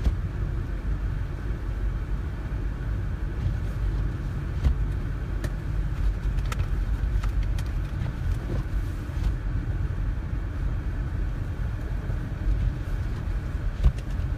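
Steady low rumble of a car driving slowly on snow-covered roads, heard from inside the cabin, with a few faint clicks scattered through.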